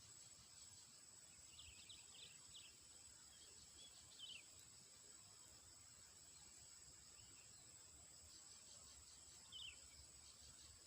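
Faint, steady high-pitched insect drone, with a few short, high bird chirps: a quick cluster of three or four about a second and a half in, one near four seconds, and another near the end.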